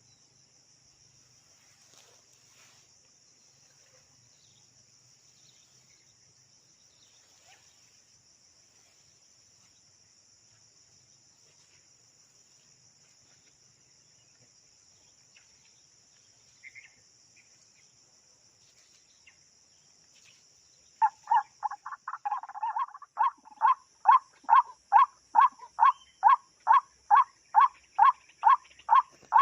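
Crickets trill steadily and high-pitched. About two-thirds of the way in, a white-breasted waterhen (ruak-ruak) starts a loud, rapid, frog-like series of calls, about three a second, which keeps going.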